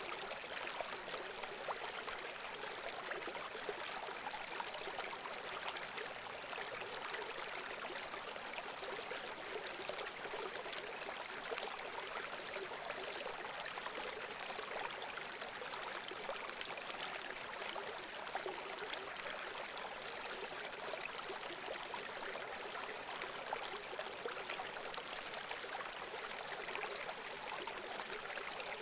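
Running water from a stream or small cascade, a steady trickling and splashing rush that doesn't change.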